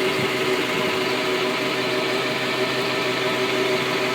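A 2004 Isuzu AVGAS refueler's PTO-driven fuel pump and truck engine running steadily under load, pumping fuel through the hose back into the tank. A constant tone sits over an even mechanical noise.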